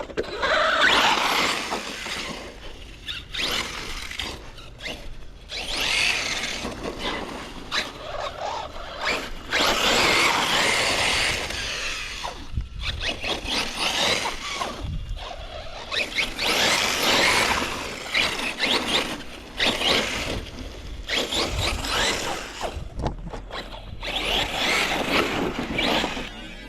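Team Corally Kagama 6S brushless electric RC car being driven hard: high-pitched motor and drivetrain whine with tyre noise, in repeated bursts of a few seconds as the throttle is punched and let off.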